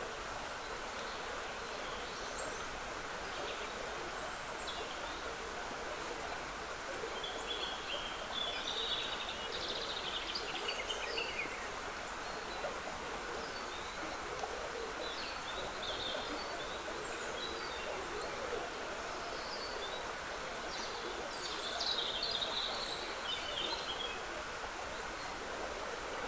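Steady trickle of running water in a spring woodland, with songbirds singing short twittering phrases over it, busiest about a third of the way in and again near the end.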